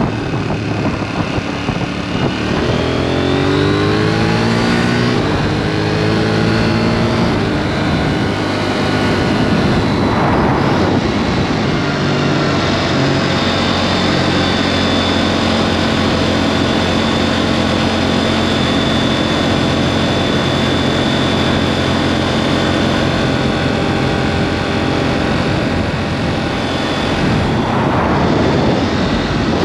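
A KTM 790 Duke's parallel-twin engine through a SpeedPro Cobra SPX aftermarket exhaust, heard from under the seat. The bike accelerates, its pitch rising, dropping at a gear change and rising again, then holds a steady cruise.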